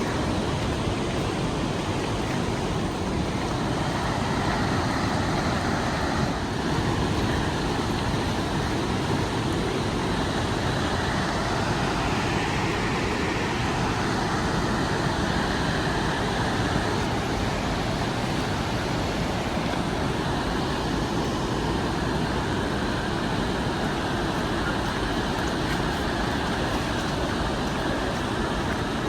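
Steady rushing roar of a large, powerful waterfall pouring heavily.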